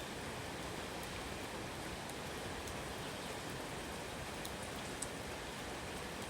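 Steady rain falling, an even hiss with a few separate drops ticking now and then, one a little louder about five seconds in.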